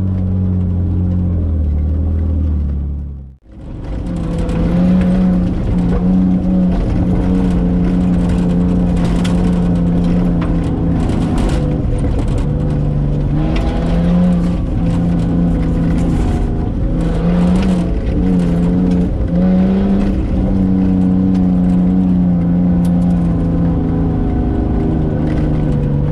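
Nissan RB25 turbo straight-six in a Nissan Patrol Y60, heard from inside the cab as the truck drives a rough dirt track. Its note rises and falls with the throttle, over knocks and rattles from the bumps. About three seconds in, the sound dips briefly almost to silence.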